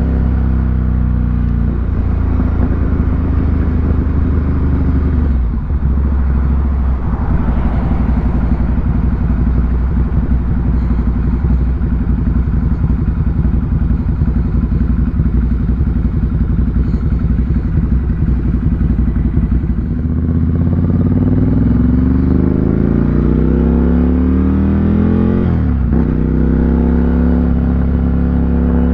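Ducati Monster 797's air-cooled L-twin running through an SC Project exhaust, holding a steady pitch for a long stretch. About two-thirds through it accelerates with a rising pitch, breaks off briefly near the end and climbs again.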